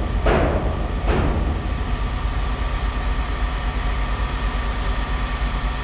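Steady low rumble throughout. Near the start, two clanks of scrap metal being tossed down.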